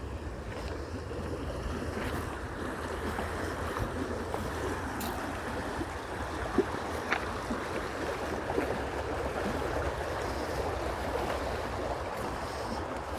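Creek water running steadily, a continuous rushing, with a low rumble of wind on the microphone and a few soft clicks.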